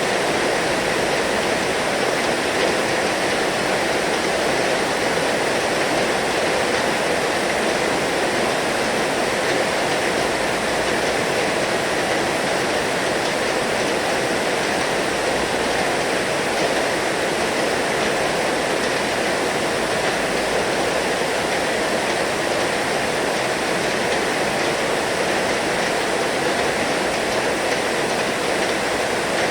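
Heavy rain falling steadily: a dense, even hiss of rainfall with no breaks or single drops standing out.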